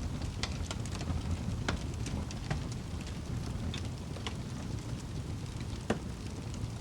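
Fire burning in a fireplace: a steady low rumble with scattered crackles and pops, and one sharper pop near the end.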